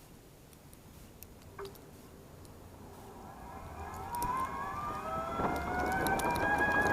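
Electric drive motor of a mobility scooter whining as it speeds up: several high tones climb in pitch from about halfway through, growing louder, then level off into a steady whine.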